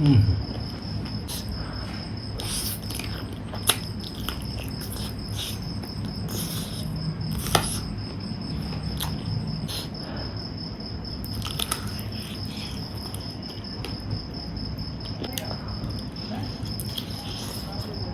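A cricket trilling steadily at a high pitch, with a low hum beneath and a few sharp clicks or taps.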